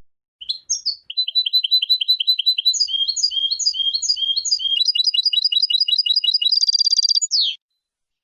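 European goldfinch singing: a long phrase of fast repeated high twittering notes that speeds into a quicker trill near the end and finishes on a falling note.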